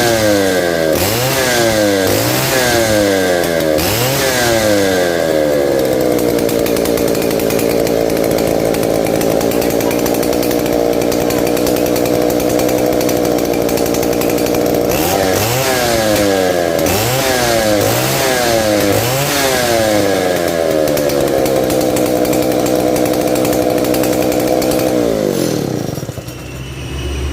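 Octagon 070 two-stroke chainsaw engine revved in quick repeated throttle blips, then held at a steady high speed. The pattern repeats: blips again about halfway through, then a long steady run. Near the end the throttle is released and the engine speed falls away.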